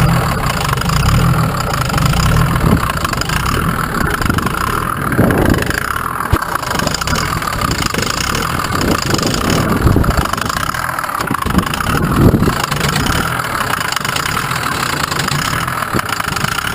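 Twin-turbo Mercedes OM603 straight-six diesel in an old GMC CCKW 6x6 army truck, running steadily and loudly, with a few sharp knocks along the way.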